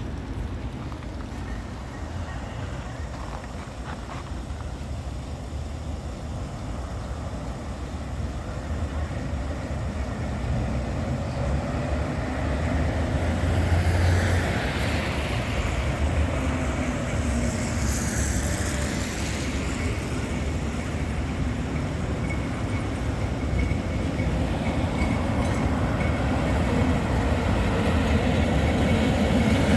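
Steady low rumble inside an LVS-86K articulated tram standing at a stop. A brief high-pitched squeal sounds about 18 seconds in, and the noise slowly builds toward the end.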